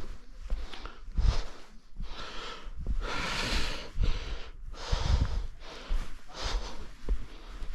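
A person breathing hard, in loud rushes of breath about once a second, with low thumps of footsteps or camera handling underneath.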